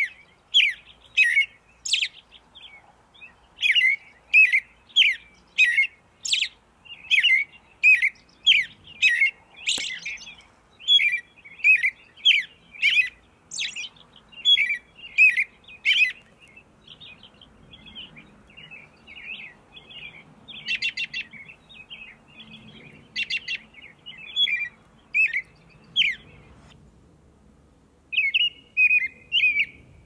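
Small birds chirping: a steady run of short, high chirps about two a second, growing sparser and fainter about halfway through, with a brief pause near the end before the chirping picks up again.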